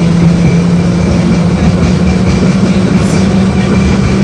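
LVS-86K tram running between stops, heard from inside the car: a steady hum from the traction drive that rises slightly in pitch, over a constant rumble of wheels on the rails.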